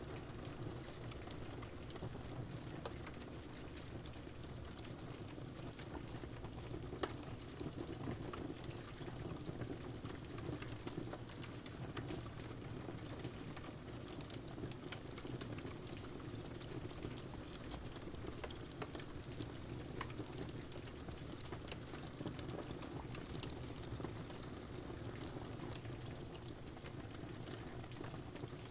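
Crackling wood fire with steady rain: a low, even rush of rain with scattered sharp crackles and pops from the fire, one louder pop about seven seconds in.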